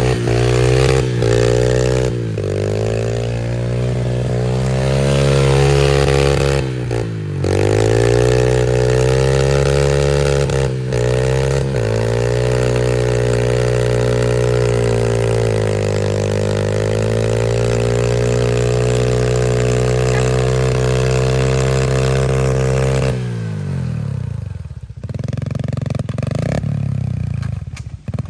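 Pit bike's small single-cylinder engine running at high revs, its pitch rising and falling as the bike spins donuts, with a few brief dips off the throttle. About 23 seconds in the engine note drops off sharply and goes much quieter.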